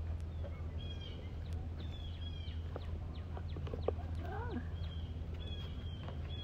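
Birds calling: short high chirps and trills, with a few lower, curving calls about four seconds in, over a steady low hum.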